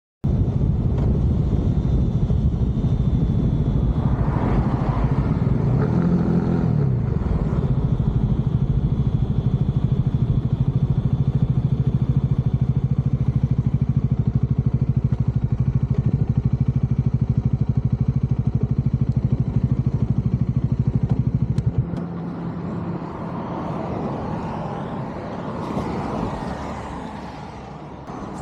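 Bajaj Dominar 400's single-cylinder engine running with a dense, steady exhaust beat, rising and falling in pitch about five to seven seconds in. The engine sound stops abruptly about 22 seconds in, leaving quieter outdoor noise.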